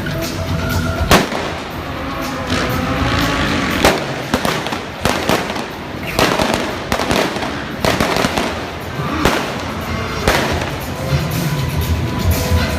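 Stunt-show pyrotechnic bangs, about eight sharp blasts at irregular intervals, over loud show music from the loudspeakers.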